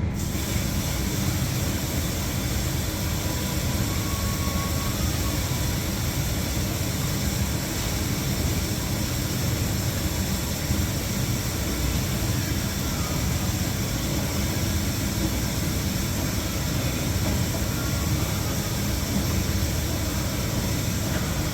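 Electrolux professional washer filling with water for its rinse: a steady rush of water that cuts in suddenly at the start.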